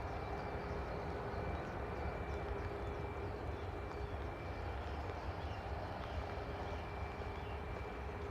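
Airbus A320 jet engines running steadily on arrival: an even rumble with a steady whine held throughout.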